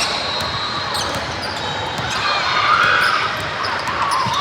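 Basketball game play: a ball bouncing on the court amid scattered short squeaks and background crowd chatter, with the squeaks busiest in the second half.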